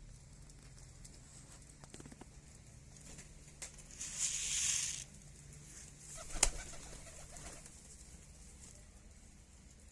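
A bird's wings flapping in a burst of about a second, followed by a sharp knock, with a few faint clicks around them.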